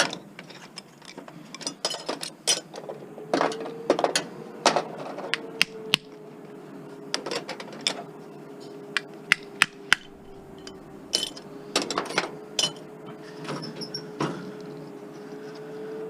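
Hand tools and metal parts clicking, knocking and clinking as an appliance is taken apart for scrap, in irregular sharp strikes. A steady faint hum runs underneath from about three seconds in.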